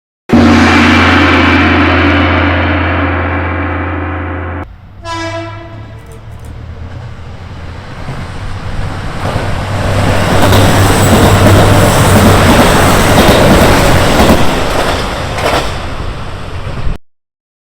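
A train horn sounds for about four seconds, then gives a short second blast as the train passes with a rising rush of wheel and running noise. The rush is loudest in the middle and cuts off suddenly near the end.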